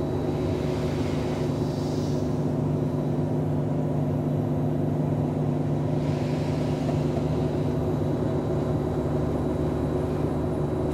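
Ferrari 599 GTB Fiorano's V12 idling steadily, heard from inside the cabin.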